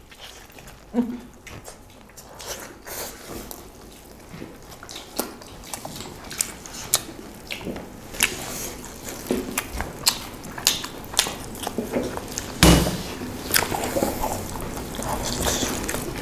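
Close-up eating sounds: several people chewing and biting into pork curry and rice eaten by hand, with many short wet mouth and lip smacks. One louder thump comes about three-quarters of the way through.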